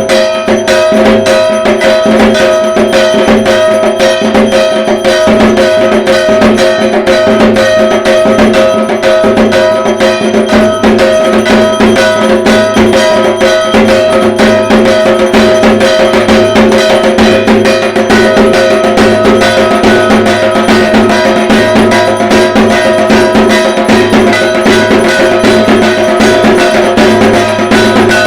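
Dhak, the Bengali barrel drum of Durga Puja, beaten with sticks in a fast, unbroken rhythm, with steady ringing tones held over the drumming.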